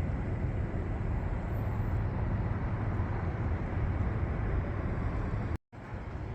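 Steady low rumble of city street traffic with no distinct events, breaking off for an instant near the end.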